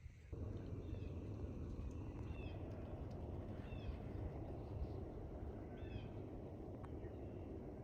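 Birds calling from a marsh: short arched chirps several times, over a steady low rumble that starts just after the beginning.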